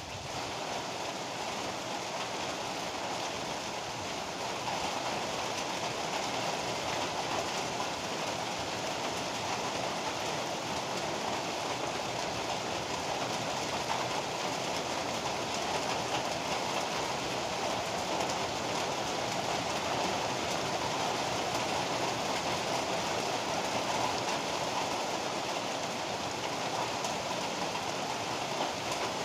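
Heavy rain pouring steadily, a dense, even hiss that grows a little louder about five seconds in.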